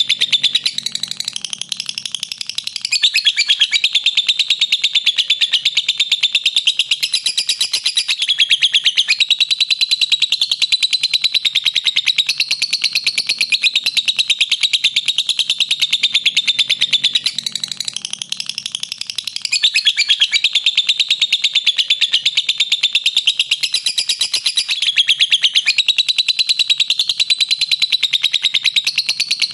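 Lovebird chattering in a long, very fast, shrill trill (the 'ngekek' call), with two brief lulls before it picks up again.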